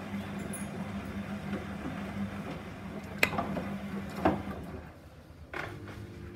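Gorenje SensoCare washing machine running with a steady motor hum, with two sharp clicks about three and four seconds in. The hum then dies away, and after a knock near the end a different, higher steady hum starts, as the machine moves to the next stage of its cycle.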